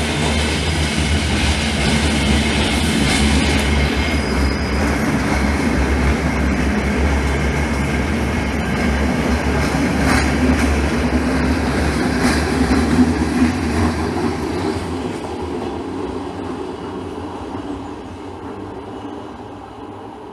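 Commuter train running slowly through a sharp curve on new rails: a steady low rumble, with thin high squealing tones from the wheels and a few sharp clicks over the track. It fades away over the last several seconds as the train moves off.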